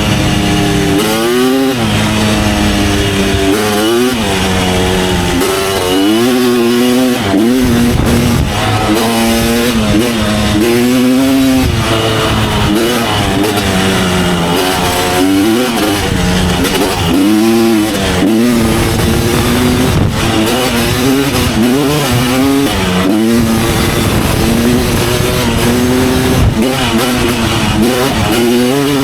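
Kawasaki KX250 dirt bike engine revving hard and dropping off again and again as it is ridden along a trail, its pitch climbing and falling every second or two.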